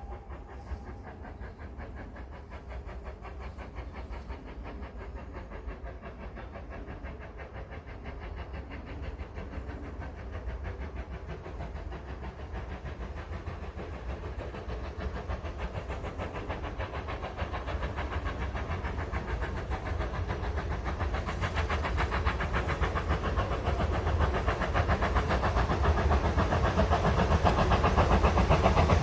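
Heritage railway train approaching, its running noise growing steadily louder, with a whistle fading out right at the start.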